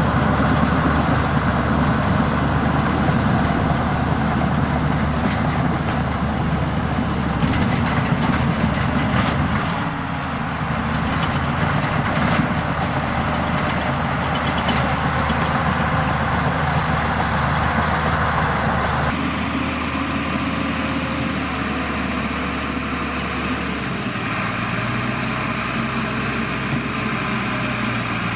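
Diesel engines of heavy earthmoving machinery running steadily, with scattered clanks and knocks through the middle stretch. The sound changes abruptly about two-thirds of the way through, to a quieter, steadier engine tone.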